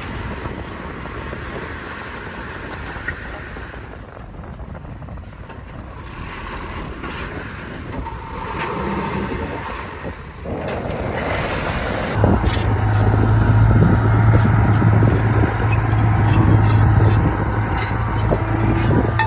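Heavy diesel earthmoving machinery running, a bulldozer and dump trucks. About twelve seconds in, a louder, steady low engine drone sets in suddenly, with sharp clicks and clanks over it.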